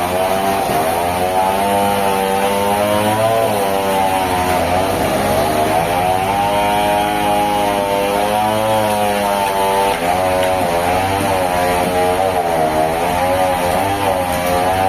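Sawmill machinery's engine running steadily. Its pitch sags and recovers every few seconds, as when it takes load through a cut.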